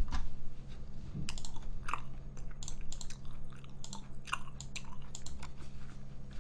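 A person chewing a mouthful of instant jjajang noodles close to the microphone, with many quick, irregular wet mouth clicks and smacks.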